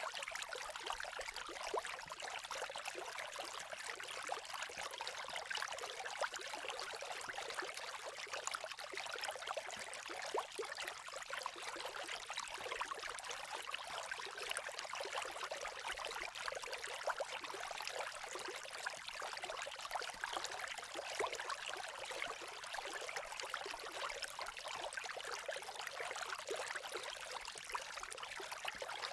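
A babbling creek running steadily, mixed with a crackling campfire that adds small sharp pops here and there.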